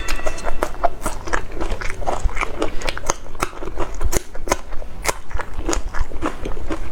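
A person eating up close: crunchy bites and chewing, with many sharp, irregular crunches a second.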